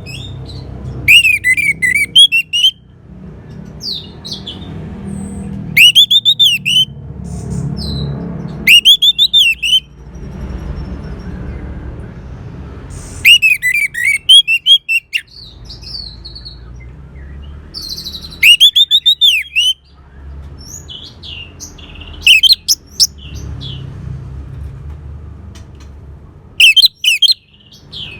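Orange-headed thrush singing: seven short, loud phrases of quick arching whistled notes, a few seconds apart, over a low rumbling background noise.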